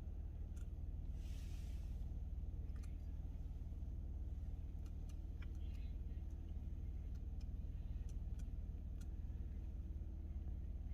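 Steady low hum inside a car's cabin, with a few faint light clicks scattered through it.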